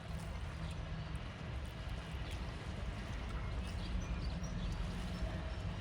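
Lake water lapping and sloshing at the shore over a steady low rumble, with a few faint, short high chirps.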